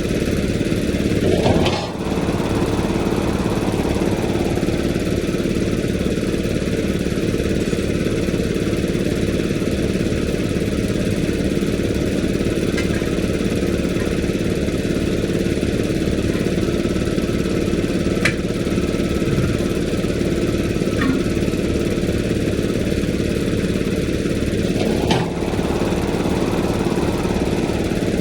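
An engine running steadily at idle, with a few faint clicks and two brief noisy swells, about a second and a half in and near the end.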